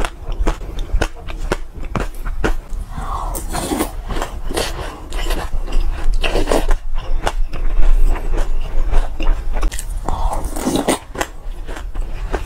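Close-up crunching and chewing of a mouthful of mixed seeds, mostly black and white sesame: a dense run of sharp crackles, with a ceramic spoon scraping through the seeds in the bowl now and then.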